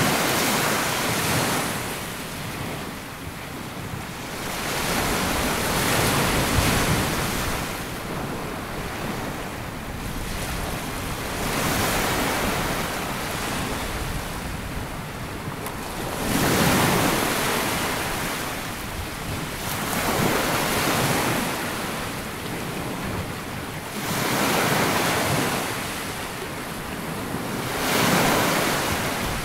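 Waves breaking and washing up on a sandy beach, the surf swelling and falling back every few seconds.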